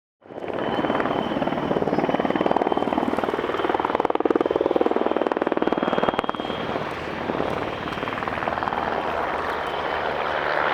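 PZL W-3 Sokół helicopter in flight: the rapid, even chop of its rotor blades over a steady high turbine whine from its twin turboshaft engines. It swells louder in the middle as the helicopter passes.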